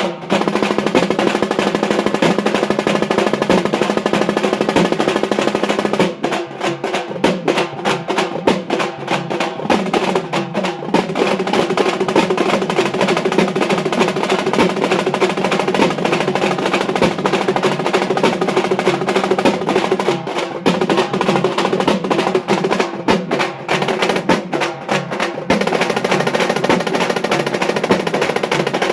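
Halgi frame drums played with sticks in a jugalbandi, a fast continuous roll of strokes. About six seconds in, and again about twenty seconds in, the roll breaks into accented patterns with short gaps, then returns to the steady roll.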